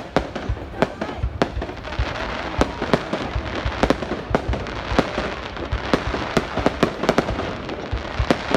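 Fireworks going off: a dense, irregular run of sharp bangs and pops over a continuous background rumble of more distant bursts.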